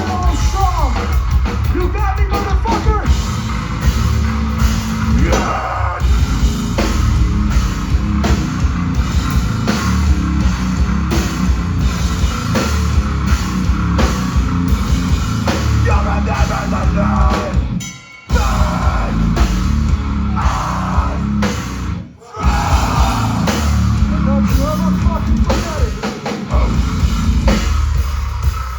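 Rock band playing live, driven by a drum kit, with guitar and bass. The band stops dead twice for a split second about two-thirds of the way through, then comes straight back in.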